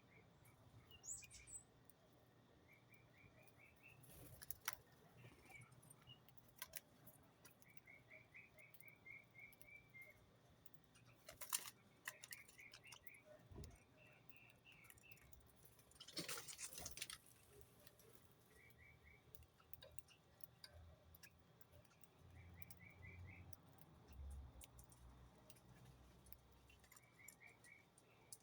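Small bird giving short, quick runs of chirps, each about a second long, repeated every few seconds and faint. Scattered light clicks, and about a second of noise near the middle.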